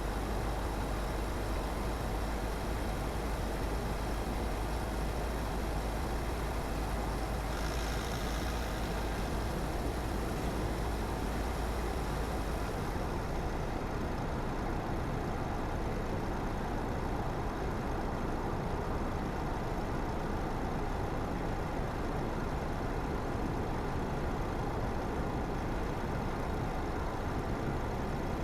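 Car driving steadily on the road: continuous tyre and engine noise, with a brief hiss about eight seconds in and the deep low rumble easing about thirteen seconds in.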